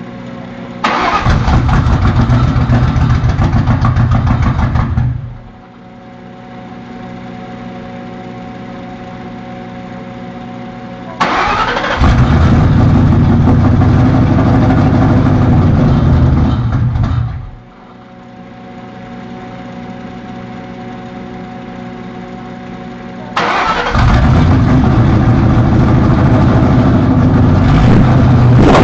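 2001 Mustang GT's 4.6-litre V8 started three times: each time it turns over and runs loudly for a few seconds, and the first two times it dies away, a stalling that the owner puts down to a vacuum leak. On the third try it keeps running. A quieter steady hum fills the pauses between starts.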